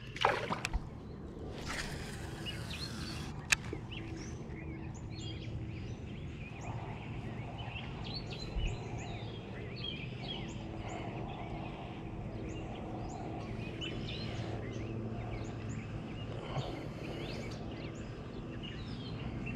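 Birds singing and chirping steadily over outdoor background noise. There is a brief rush of noise about two seconds in and a single sharp click a second later, and a faint steady hum from about five seconds on.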